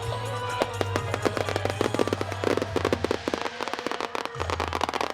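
Aerial fireworks going off in a rapid, dense string of pops and crackles, thickest about halfway through.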